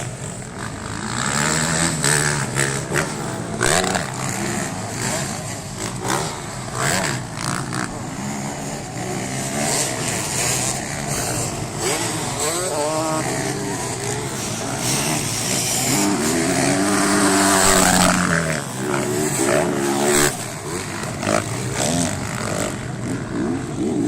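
Motocross motorcycle engines racing, revving up and down in pitch as bikes go by, loudest about two thirds of the way in.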